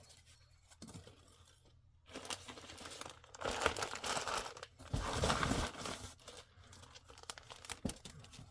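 Plastic packaging bags crinkling and tearing as they are handled and pulled open. After a quiet first two seconds, it is loudest in the middle, with a dull thump about five seconds in, then settles to softer rustling.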